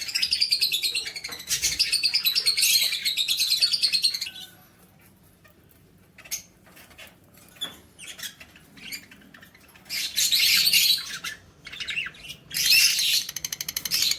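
Pet lovebirds chattering in rapid, high-pitched chirps. After about four seconds they go quiet for a second or two, give scattered single chirps, then burst into dense chatter again twice toward the end.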